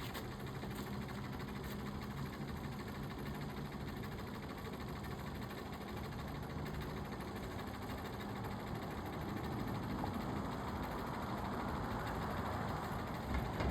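Dirt bike engine running with a steady hum, growing louder and rougher about two-thirds of the way through.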